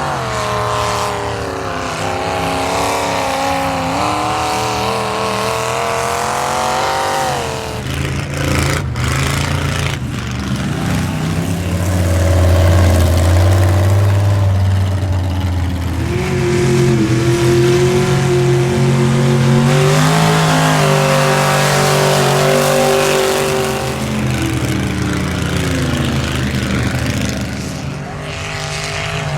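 Square-body Chevy mud truck's engine revving hard in the mud bog. Its pitch climbs for several seconds and drops off suddenly, then settles into a deep rumble. It climbs again midway and winds down near the end.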